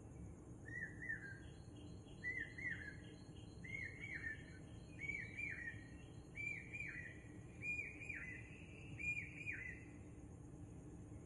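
A bird calling: seven pairs of short chirps that rise and then drop in pitch, evenly spaced about a second and a half apart, over steady low background noise.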